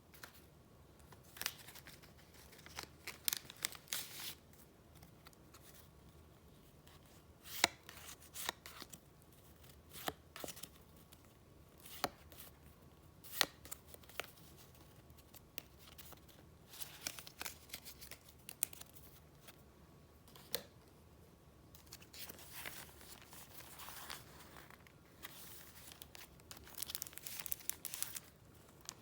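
Paper being handled: crisp rustles, taps and crinkles at irregular moments, with a longer stretch of steady rustling near the end.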